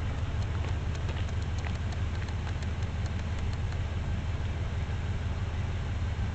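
Toyota Tundra engine idling steadily through a TRD dual exhaust, an even, deep rumble.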